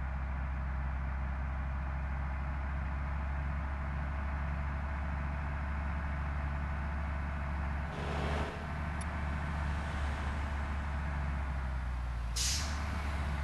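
Mitsubishi Fuso Canter dump truck's diesel engine idling steadily. A softer hiss comes about eight seconds in, and a short, sharp hiss of air near the end.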